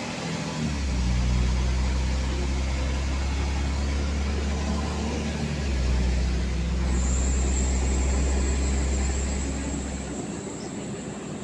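LiAZ city bus on the move, heard from inside the cabin: a low engine drone that shifts in pitch about a second in and again about halfway through, then drops away near the end. A faint high whine sets in after the middle.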